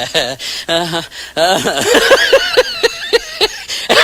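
Laughter sound effect: a voice laughing in a quick run of short pitched 'ha' bursts, about five a second, from about one and a half seconds in, after a brief lower laugh.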